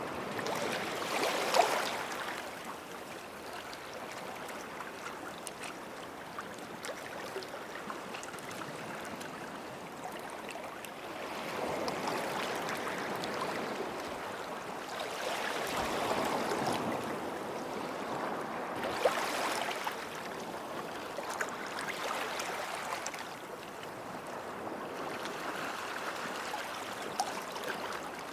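Small sea waves washing onto a sandy beach, swelling and drawing back every few seconds, with a sharper splash about a second and a half in and another about two thirds of the way through.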